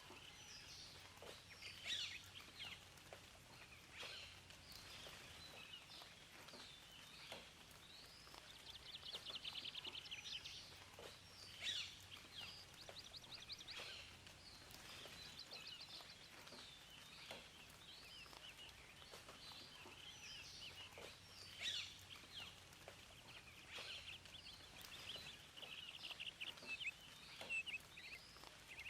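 Several songbirds singing and chirping, with a few rapid trills of quickly repeated notes, over a faint steady hiss.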